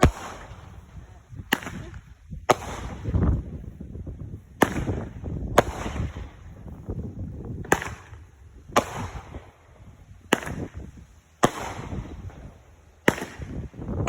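Fireworks going off: about ten sharp bangs at irregular intervals of one to two seconds, each followed by a low rumbling tail.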